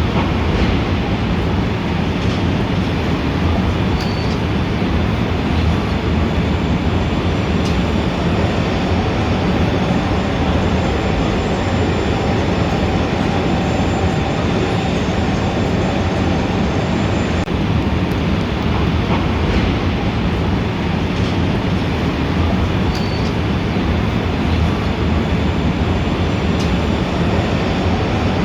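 Steady city street traffic: a dense, continuous rumble of vehicles, with a brief faint high squeak twice.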